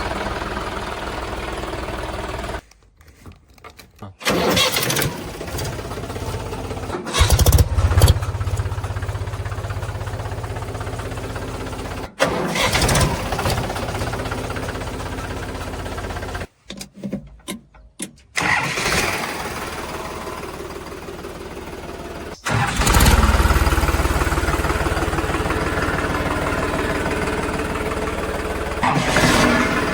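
Diesel engines of heavy machinery running, with surges in level about eight seconds in and again after twenty-two seconds; the sound breaks off abruptly several times and comes back at a different level.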